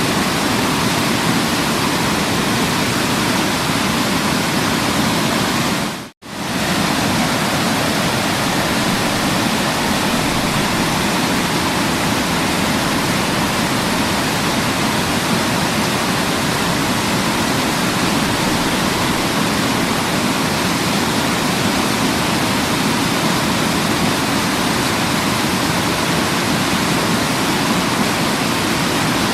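Waterfall: water falling and rushing in a steady, dense roar of noise. About six seconds in it dips briefly to near silence and swells back, as at the seam of a looped recording.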